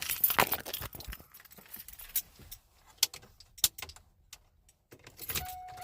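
Keys jangling with a run of sharp clicks and knocks, as a car key is handled. About five seconds in a steady electronic tone starts and holds.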